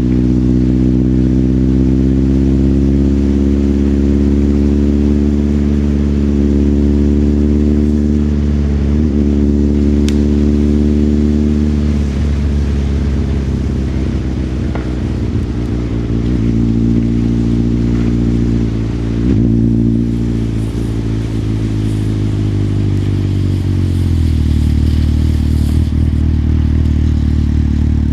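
Motorcycle engine running while riding, its pitch easing slowly down, rising briefly again, then dropping to a steady idle about three quarters of the way through.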